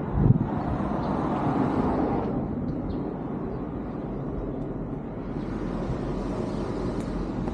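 Outdoor street ambience: a short low thump just after the start, then a vehicle passing, swelling over the first two seconds and fading off.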